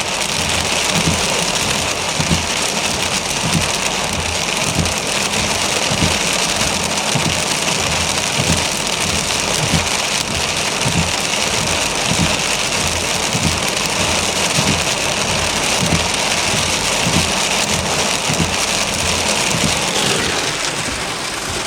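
Steady rain falling on a car, with many small drop impacts close together; it eases a little near the end.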